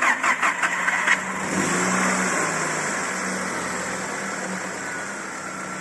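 Audi A3 1.8 turbo four-cylinder, fitted with a small open cone air filter, cranking with a rapid even chatter for about a second, then catching and settling into a steady idle, the idle pitch lifting and easing back down.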